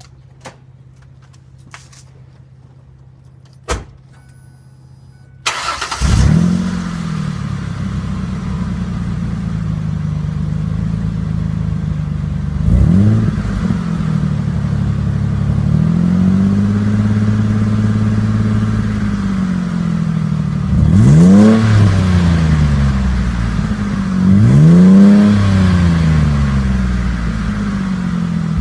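A 2002 Ford Explorer Sport Trac's 4.0 SOHC V6 starts about five seconds in, after a few clicks, and then idles through a 30-inch Magnaflow glasspack exhaust that is dumped in front of the rear tire. It is revved several times: a short blip, one longer held rev that rises and falls, then two sharper, higher revs. The loudest of these comes near the end.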